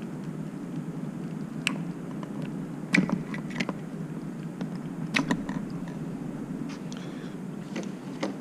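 Plastic electrical connectors being unclipped and handled on a motorcycle's air intake: several sharp, separate clicks and small rattles.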